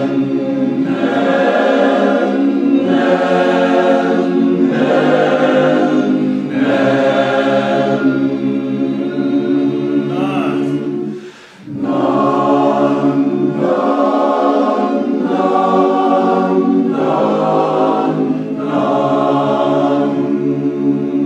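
A barbershop-style chorus singing a cappella in four-part harmony. Held chords change about once a second over a steady low part, in two phrases of about ten seconds each, with a short break for breath halfway through.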